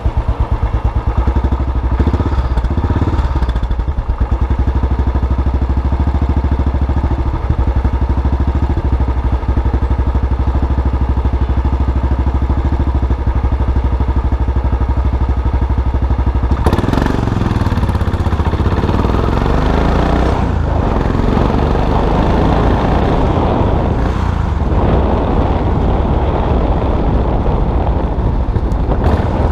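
Custom motorcycle engine running while riding in city traffic, a steady low note for about the first half. Then the sound grows fuller and noisier, and the engine note rises and falls for the rest.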